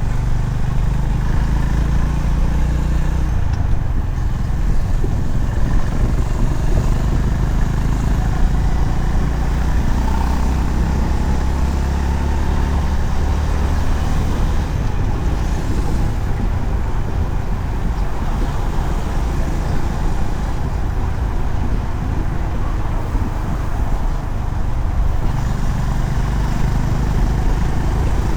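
Honda CB350RS's air-cooled single-cylinder engine running at road speed, mixed with steady wind rush over the microphone.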